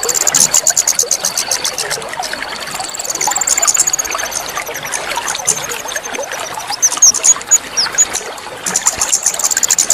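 Trickling, pouring water with a small bird's rapid high trills over it, loudest near the start and near the end, and a wavering high whistle in between. This is a water-therapy sound that bird keepers play to get a bird that has stopped singing to sing again.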